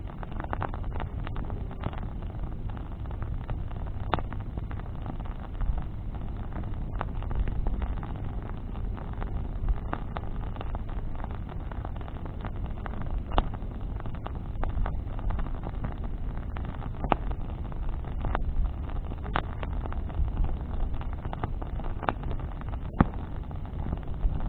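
Bonfire of branches crackling, with sharp pops scattered irregularly a few times a second, over a steady low rumble.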